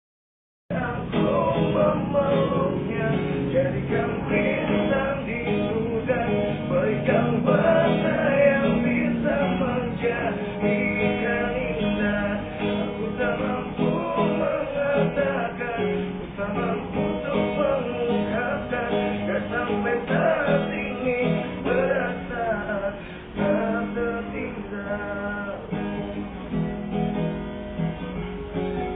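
Acoustic guitar strummed steadily, an instrumental lead-in before the vocals, starting about a second in.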